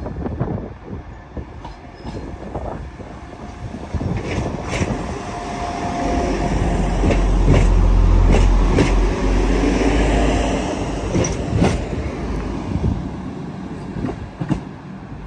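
Train passing, its wheels clicking over rail joints, with a deep rumble that builds to its loudest in the middle and then fades away.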